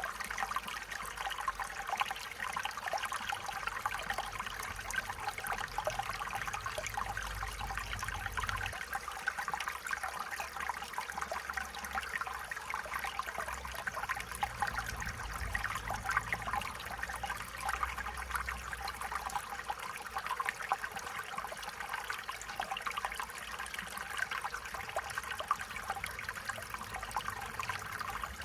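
Stream water flowing and trickling steadily, with a continuous splashing babble. A faint low rumble comes and goes beneath it.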